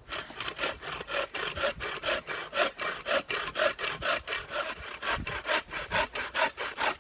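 Hand saw cutting through a small tree trunk with quick, even back-and-forth strokes, several a second.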